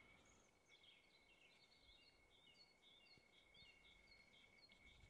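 Near silence: faint songbird chirps repeating, over a faint steady high-pitched tone.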